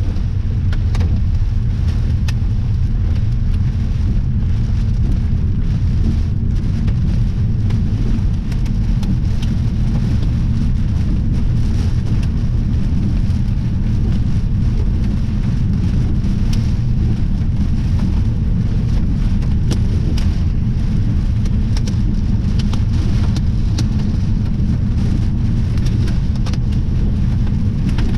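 Heavy storm rain with many sharp pattering hits, under a deep steady rumble of strong wind buffeting the microphone.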